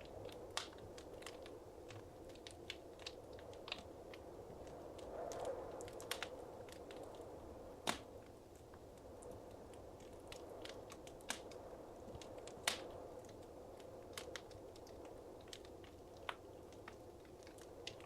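Wood fire burning in a fireplace: a low steady rustle of flames with scattered sharp crackles and an occasional louder pop, two of them standing out, one near the middle and one about two-thirds through.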